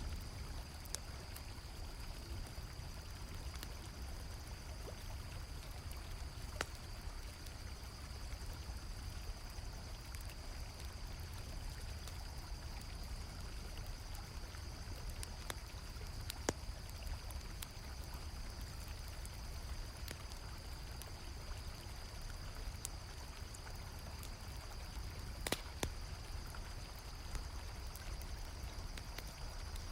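Mixed night ambience: a river flowing steadily under a constant high chirring of crickets, with a handful of sharp campfire crackles and pops, the loudest about halfway through and a pair near the end.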